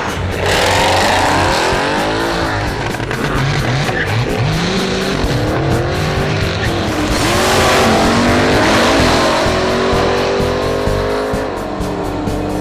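A drag-racing muscle car's V8 engine revving hard, its pitch rising and falling several times, with a longer high rev about two-thirds of the way through, and tires squealing as in a burnout. Background music plays under it.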